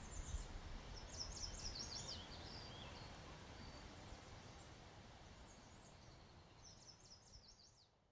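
Outdoor ambience: a small bird sings two bouts of quick, high, falling chirps over a faint low rumble, the whole fading out near the end.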